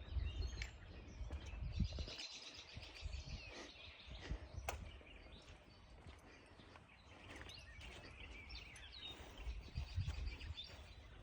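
Outdoor ambience: small birds chirping in short repeated trills, over a low steady rumble, with a single sharp click about halfway through.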